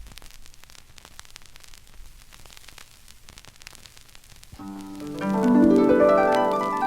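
A quiet stretch with faint scattered ticks, then about four and a half seconds in a harp comes in loud with a sweeping run of plucked notes that climbs and then falls back down.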